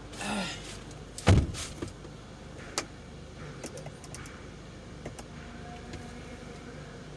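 A single loud, heavy thump about a second in, then several light clicks and small knocks over a steady low background.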